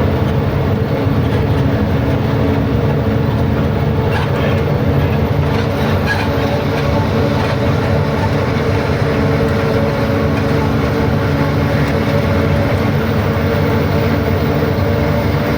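A truck's engine running steadily under way, with road noise and rattles from the moving truck.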